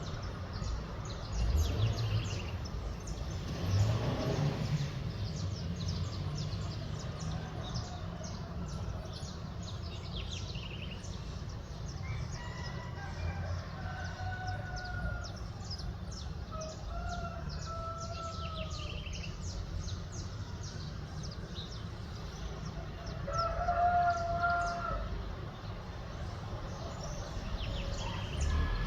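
A rooster crowing three times, the last crow the loudest, over a steady chorus of small birds chirping. A low background rumble runs under it all.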